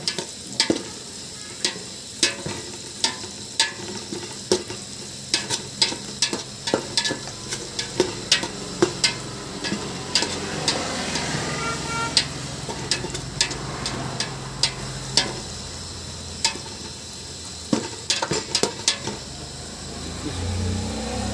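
A spatula stirring in a frying pan or kadai, knocking and scraping against the metal many times, over the steady sizzle of food frying in hot oil.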